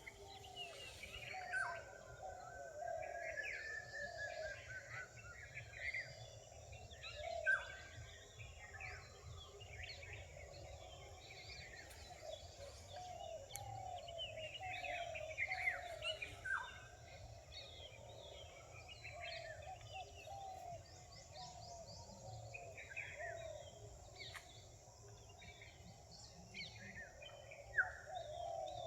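Several forest birds calling together at dawn: many overlapping chirps and short whistles, over a lower note repeated again and again, with a few louder sharp calls standing out. A faint low rumble runs underneath.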